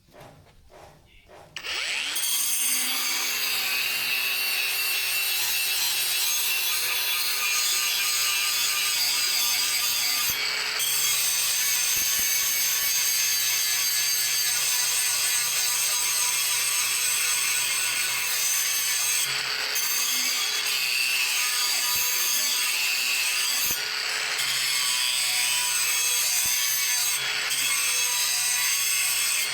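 A power tool starts up about two seconds in and runs steadily against the saw-blade steel, a loud high-pitched hiss over a constant motor hum. The hiss drops out briefly a few times.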